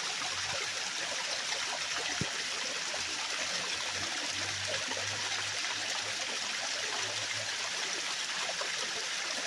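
Small waterfall pouring down: a steady rush of falling and running water.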